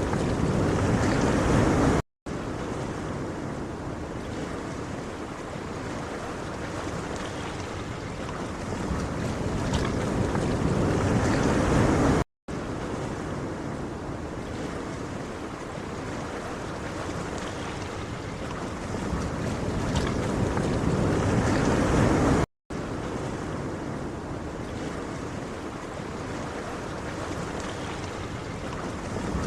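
Ocean surf: a dense, even wash of waves that swells louder over about ten seconds, then breaks off abruptly into a moment of silence and starts again, three times over.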